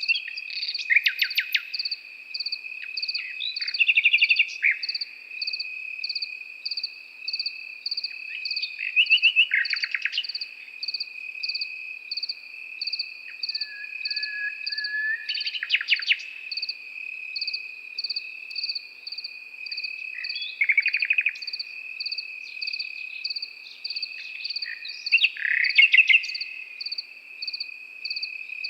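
A nightingale singing short phrases of rapid repeated notes every few seconds, over crickets: one trilling steadily and another chirping about twice a second.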